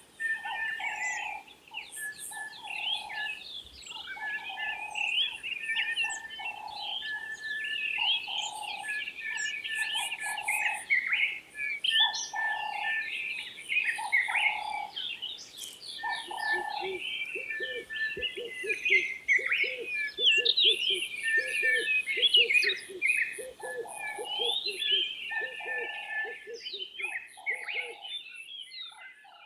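Morning chorus of several songbirds singing together: many overlapping chirps and whistles, with a lower call note repeated about once a second and fast high trills.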